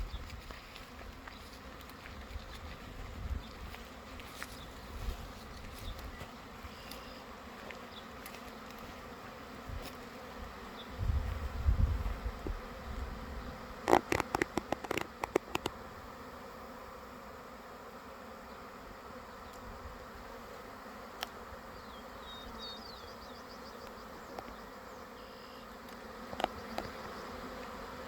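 A swarm of bees buzzing in a steady drone of many wings. About halfway through, a quick run of sharp clicks and a few low thumps stand out above the hum.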